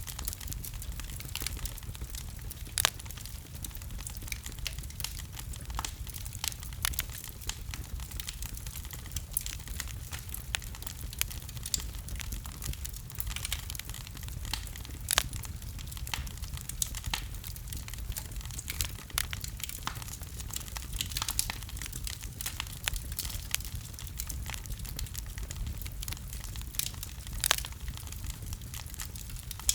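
Wood logs burning in a fireplace: irregular crackles and sharp pops over a steady low rumble of the flames.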